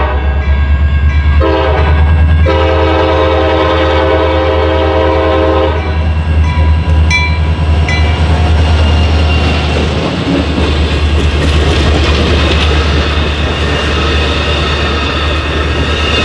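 EMD GP40-2 diesel locomotive sounding its horn for a grade crossing: a long blast ends about a second in, then a short blast and a long blast of about three seconds, over the low drone of its diesel engine. The locomotive then passes close by, and the horn gives way to steady rolling wheel-on-rail noise and clickety-clack as the cars go by, with a couple of brief wheel squeals.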